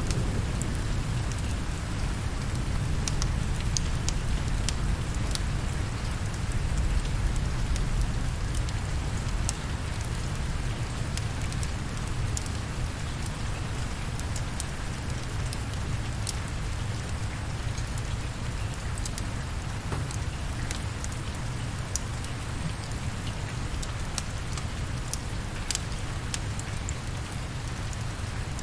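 Steady rain falling, with scattered sharp ticks throughout. Under it runs a deep low rumble that is stronger in the first several seconds and then eases slightly.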